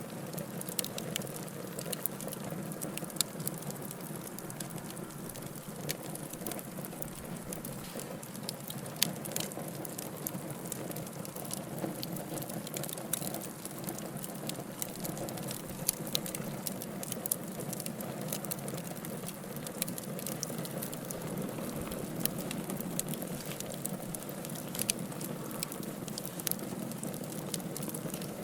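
Wood fire burning in a fireplace: a steady rustle of flames with irregular sharp crackles and pops from the burning logs.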